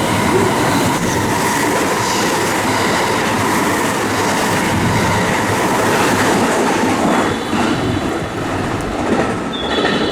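A train passing through the station platform without stopping: continuous loud rumble and clatter of wheels over the rail joints, with a faint steady whine in the first half.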